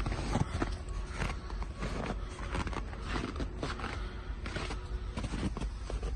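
Scania G410 truck's diesel engine running with a steady low rumble, with irregular footsteps and knocks over it.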